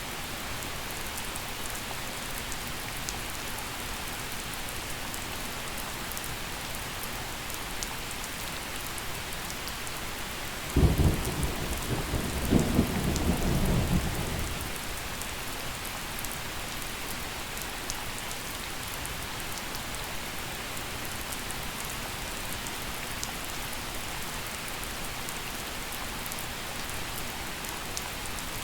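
Gentle rain falling steadily, with a sudden clap of thunder about a third of the way in that rumbles on for a few seconds and fades away.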